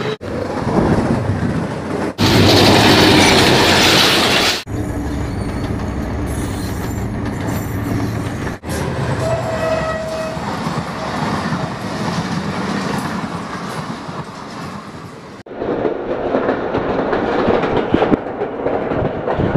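Diesel-electric locomotive and passenger coaches passing at speed, engine running and wheels clattering over the rail joints, the sound cut abruptly between several passes; loudest from about two to four and a half seconds in. Near the end it changes to the lower rumble heard riding aboard a moving train.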